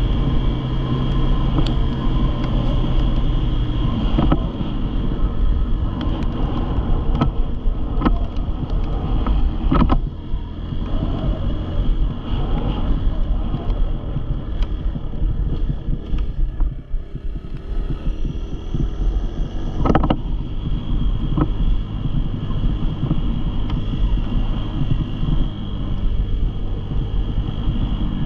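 Dirt bike engine running, with scattered knocks and rattles; it eases off briefly about two-thirds of the way through.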